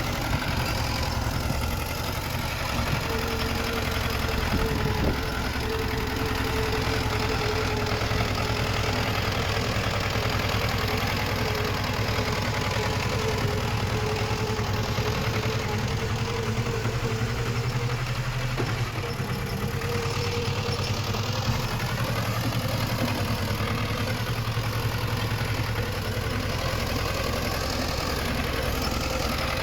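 Diesel engine of heavy earth-moving machinery running steadily, with a thin steady whine through much of the middle.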